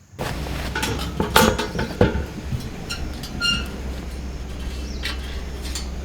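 Scattered clinks and knocks of gear being handled over a steady low hum, with a few short high-pitched chirps.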